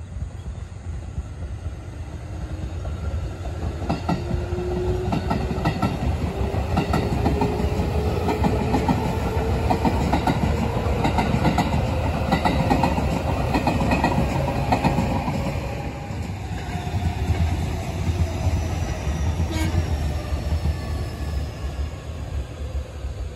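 JR 211-series electric train passing, with a steady rumble, wheels clattering over rail joints and a slowly rising motor whine. A second electric train passes near the end, with tones falling in pitch.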